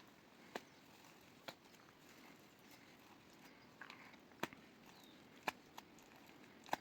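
A handful of sharp, separate clicks or knocks, about six at uneven spacing, over a faint steady hiss.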